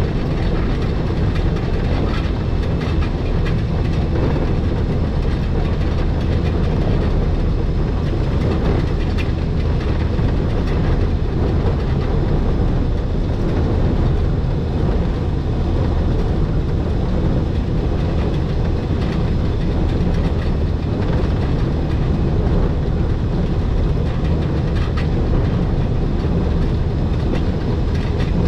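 Electric rack train of the Schynige Platte Railway running downhill on its Riggenbach rack line: a steady running rumble with a low hum and faint clicks from the wheels and track.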